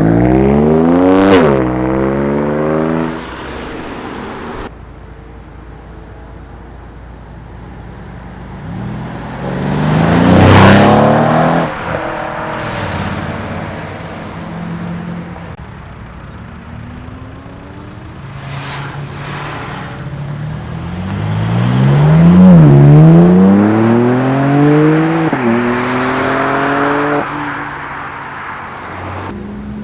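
Several cars accelerating hard past one after another, engines revving up through the gears with a drop in pitch at each shift. The loudest passes come near the start, around ten seconds in, and from about twenty to twenty-seven seconds in, with quieter traffic between them.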